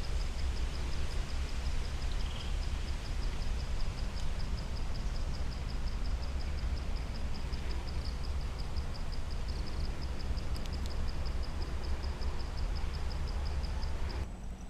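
An insect chirping in a fast, even, high-pitched pulse over a low rumble. Both stop suddenly near the end.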